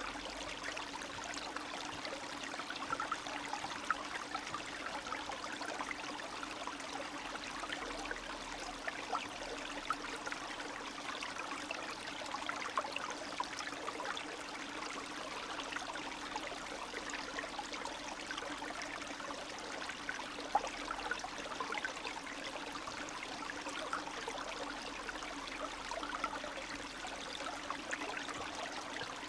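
Small spring stream of meltwater running and trickling, a steady babble made of many small splashes and gurgles.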